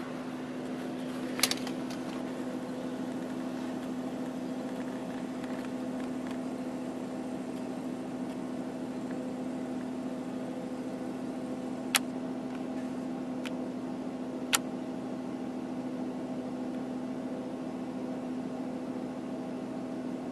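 Car engine running steadily, heard from inside the cabin as a low, even hum. Three sharp clicks stand out: one about a second and a half in, two more past the middle.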